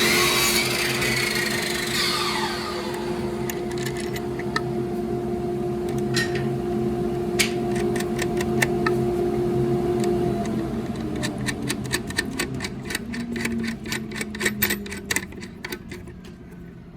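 A small power tool motor running with a steady hum, its pitch sliding down after about ten seconds, with rapid clicking in the second half while roller-wheel U-bolt hardware is fitted.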